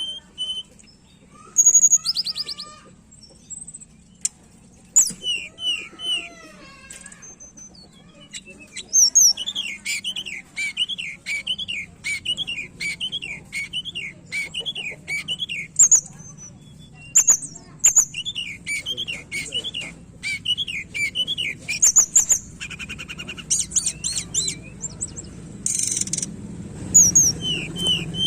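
Tledekan gunung (Sunda robin) singing hard: long runs of rapid, repeated up-and-down chirping phrases with sharp high notes between them.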